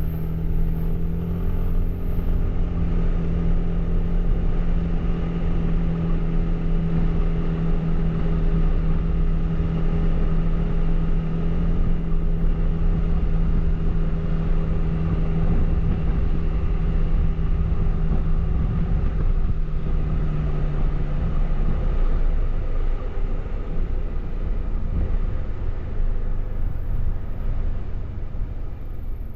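Suzuki Burgman 400 maxi-scooter's single-cylinder four-stroke engine on its stock exhaust, running at a steady pitch under way. About twenty seconds in, the note drops lower and a little quieter as the rider eases off.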